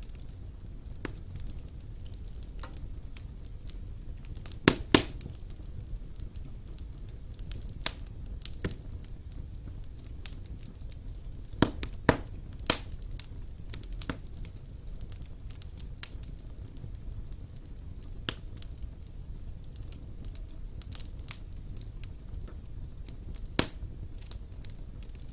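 Wood fire burning in a fireplace: a low steady rumble of flames with irregular sharp crackles and pops from the burning logs, a few louder pops about five seconds in, around twelve seconds in and near the end.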